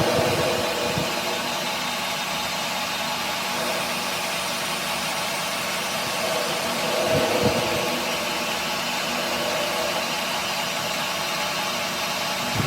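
A workshop machine tool running steadily under power, a constant mechanical hum and whir, with a brief swell about seven seconds in.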